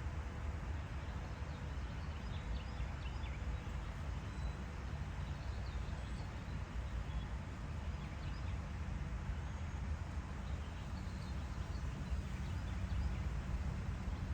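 Garden ambience: a steady low rumble with faint, scattered chirps of distant songbirds.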